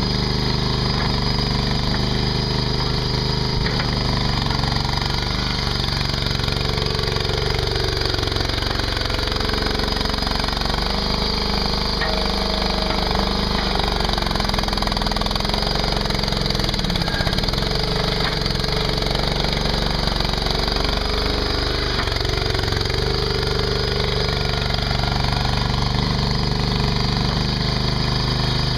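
Mini skid steer's engine running steadily, its pitch dipping briefly a few times.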